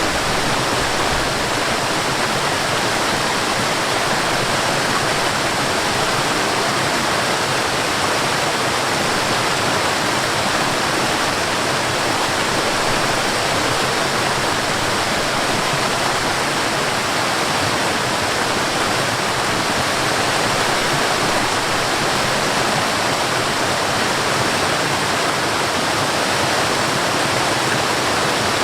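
Water rushing over a small waterfall and along a stream, a steady, even rush with no breaks.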